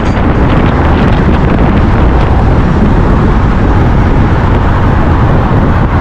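Loud, steady rumble of a vehicle, heaviest in the low end, with no clear engine note.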